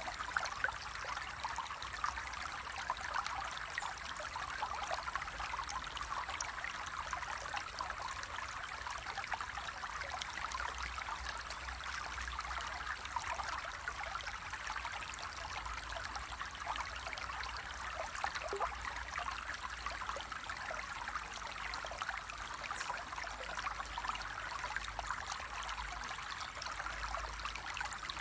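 Water flowing steadily in a stream, a continuous babbling splash with fine trickling detail and no pauses.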